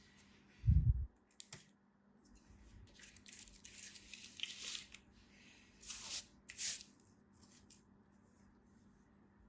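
A dull thump about a second in, then a run of crisp crackling and tearing sounds from something being handled, with two sharper crackles a little past the middle.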